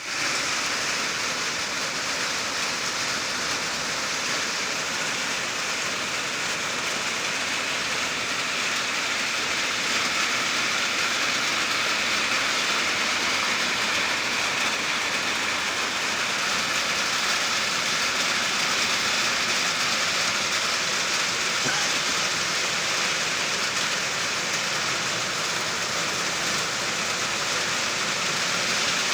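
Heavy rain falling: a steady, dense hiss with no let-up.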